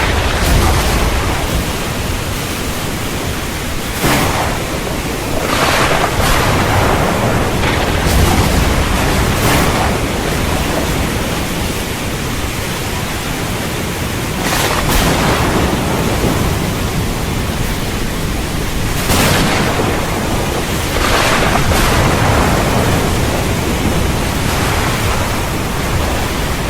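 Steady heavy rain, with thunder cracking sharply about eight times and rumbling low in between.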